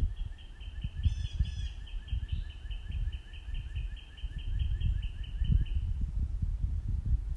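A backyard bird sings a long, rapid series of identical high notes, about five a second, that stops about six seconds in. Another bird chips briefly about a second in. A low, uneven rumble runs underneath.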